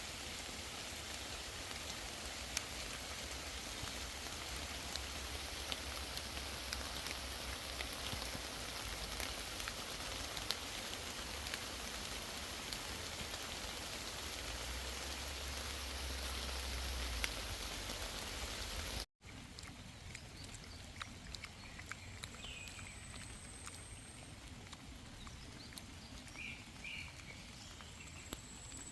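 Rain falling on a forest path and foliage: a steady patter with scattered drop ticks. About 19 s in it cuts abruptly to lighter rain, with a few short high calls.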